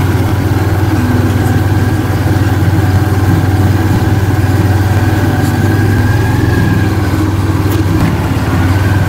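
Engine of a motorcycle-with-sidecar tricycle running steadily while riding, a low even hum with a faint steady whine above it.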